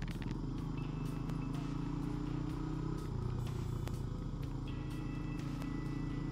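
A 250 cc chopper motorcycle's engine running while riding. Its pitch rises, drops about three seconds in, then rises again.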